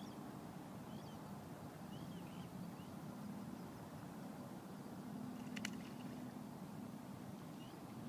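Short, faint bird chirps every second or so over a steady low outdoor rumble by open water, with one brighter, sharper call a little past halfway.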